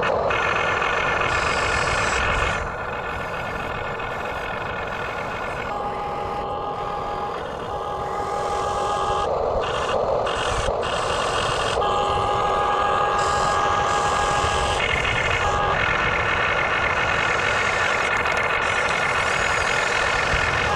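Radio-controlled backhoe excavator's small electric motors and gears running with a steady whine, changing in pitch and level and cutting in and out as the functions are worked.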